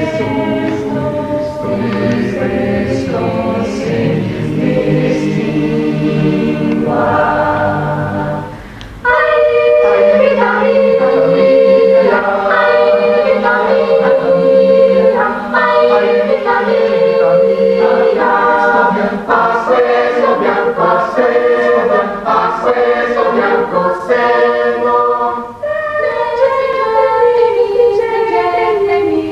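Choir singing in several voice parts at once. The voices break off briefly about eight and a half seconds in, then come back in louder.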